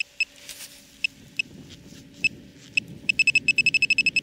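Metal-detecting pinpointer beeping: short single beeps, spaced out at first, then a fast even run of about eight beeps a second from about three seconds in. The quickening beeps mean it is closing in on a small metal target in the hole.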